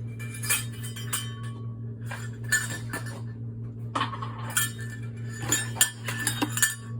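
Measuring cups and spoons clinking and rattling as they are rummaged through and handled, in several short clusters of clicks, over a steady low hum.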